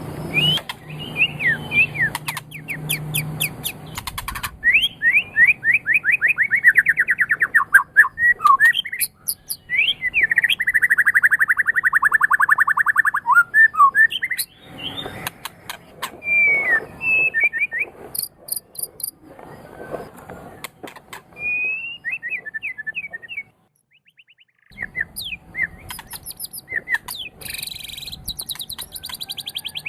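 White-rumped shama (murai batu) singing a long, varied song: fast trills and rapid runs of repeated notes, whistled glides and high chirps, with a brief pause about three-quarters of the way through.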